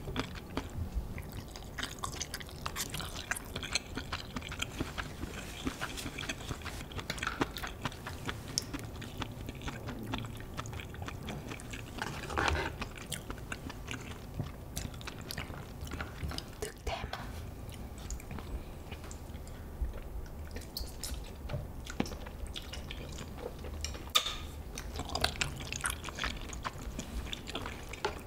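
Close-miked mouth sounds of eating mala tang: chewing and biting, with many small scattered clicks throughout.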